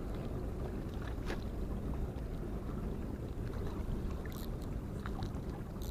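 Steady outdoor harbour background of wind on the microphone and water, with a faint steady low hum and a few light clicks.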